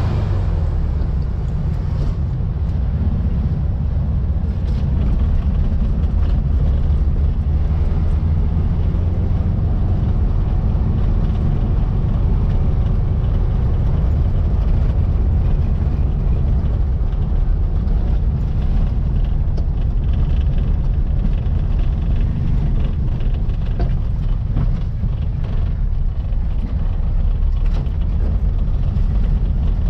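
The 1700cc air-cooled flat-four engine of a VW Baja Bug running steadily while driving, its sound mostly a low rumble.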